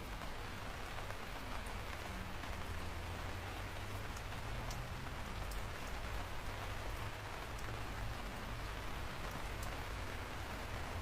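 Steady rain falling, an even hiss with a low rumble underneath and scattered drops ticking throughout.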